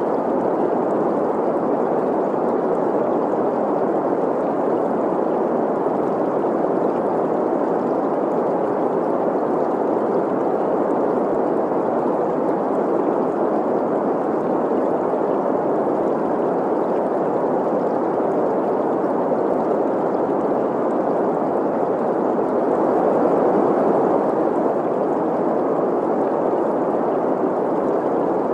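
Steady green noise, an even hiss centred in the middle range, blended with the sound of a flowing stream.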